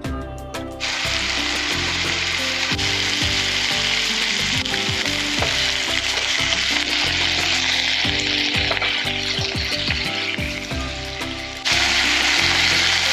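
Food frying in a pan, a steady sizzle that starts about a second in and gets louder near the end.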